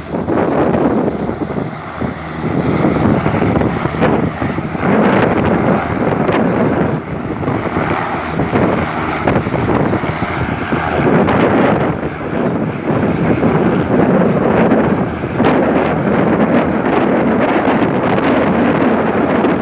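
Strong gusty wind buffeting the microphone, a loud rushing noise that rises and dips in gusts.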